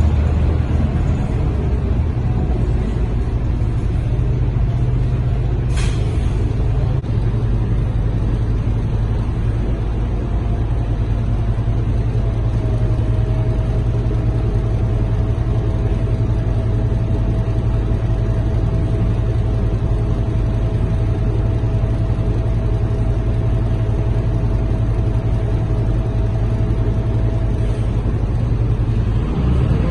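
Inside the cabin of a Scania K230UB bus on the move: a steady low drone of its five-cylinder diesel engine and the road. A steady whine holds through most of the middle, and there is a brief sharp sound about six seconds in.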